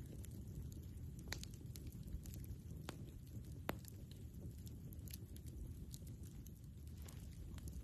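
Wood campfire crackling, with scattered sharp pops, three louder ones spread through the middle, over a steady low rumble.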